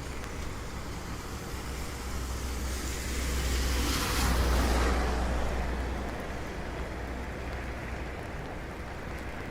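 A vehicle passes on a wet road, its tyre hiss swelling to a peak a few seconds in and fading away, over a steady rain-and-street background.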